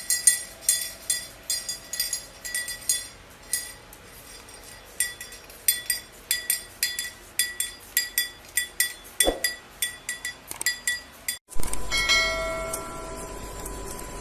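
A small metal bell struck rapidly and irregularly, dozens of quick ringing strikes. About 11.5 s in it cuts off abruptly, and a steady hum with a few short pitched tones follows.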